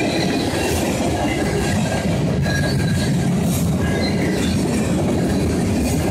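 Freight cars of a CSX manifest train, tank cars and loaded centerbeam flatcars, rolling past close by: a steady rumble of steel wheels on rail, with thin squealing tones from the wheels that come and go.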